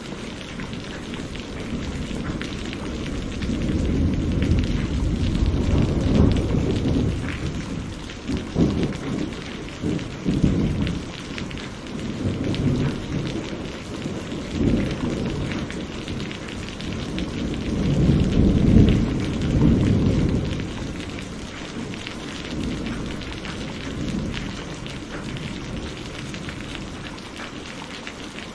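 Steady heavy rain with rolling thunder that swells and fades several times. Sharper cracks come about a third of the way in, and the loudest, longest rumble about two-thirds through.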